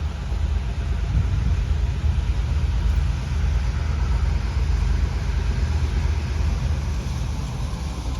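Diesel locomotive engines running with a steady low rumble.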